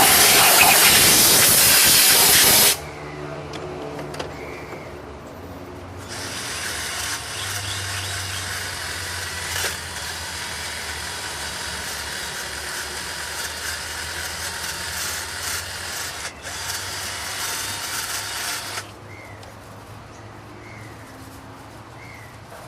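A loud hiss that cuts off sharply about three seconds in, then a steady whirring power tool that starts a few seconds later and runs for about twelve seconds, typical of cleaning carbon from engine parts. Faint bird chirps are heard near the end.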